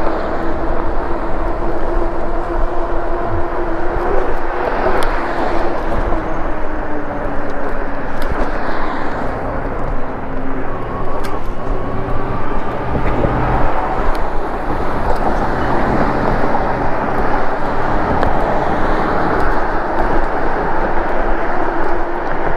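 Traffic and road noise heard from a moving e-bike: a steady rush of passing cars. A steady hum fades over the first several seconds, and a short rising whine comes near the middle.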